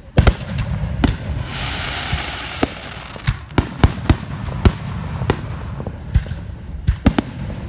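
Fireworks going off: sharp bangs at the start, a hissing spray about a second and a half in, then a run of sharp cracks and pops every half second or so.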